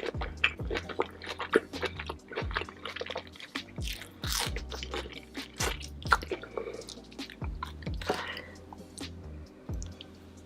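Close-miked chewing of food covered in sauce: wet mouth sounds with many sharp clicks and smacks in an uneven rhythm, over quiet background music.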